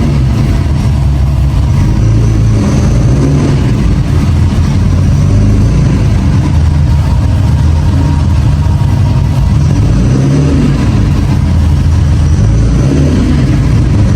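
Nissan Skyline C110 'Kenmeri' engine running steadily, a loud low hum that holds at an even pitch throughout.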